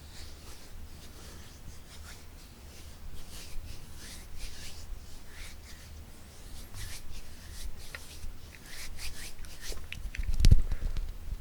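Close-miked hand sounds: soft, irregular rubbing and brushing strokes, with one sharp tap near the end, the loudest sound.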